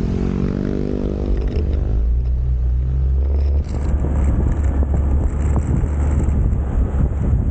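Motorcycle engine running under way. Its pitch rises a little in the first second, then holds steady. From about halfway in, wind rumbles and buffets on the microphone.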